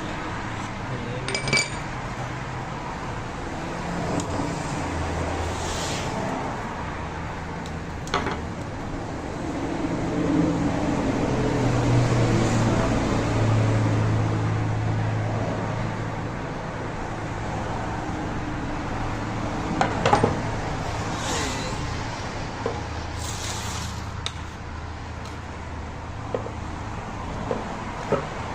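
Tools and metal parts clinking and knocking now and then over a steady low hum, with a few short hisses.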